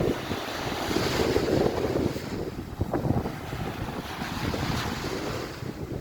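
Wind buffeting the microphone in uneven gusts, with surf washing on the beach behind it.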